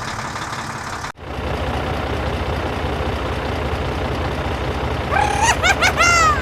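Tractor engine idling with a steady low pulsing beat; it drops out for an instant about a second in and resumes. Near the end, a short high-pitched cartoon-like voice in a few rising-and-falling syllables.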